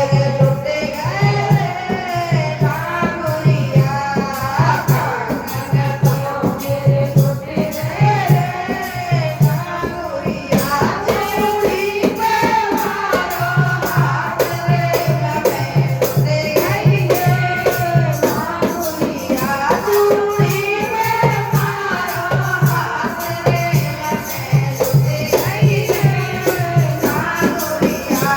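Languriya folk song: a voice singing a wavering melody over a steady drum beat and jingling rattle percussion.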